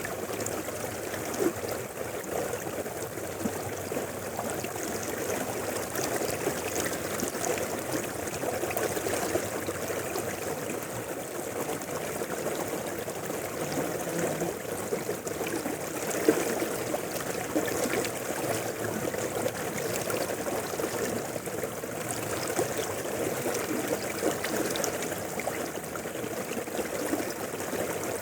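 Mountain river flowing: a steady rush of water with small brief splashes, one louder splash about 16 seconds in.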